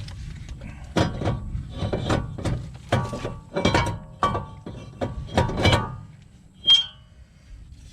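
Irregular metal knocks and clinks, some ringing briefly, from tools and brake parts being handled during reassembly. A single sharper, louder metallic clink comes near the end.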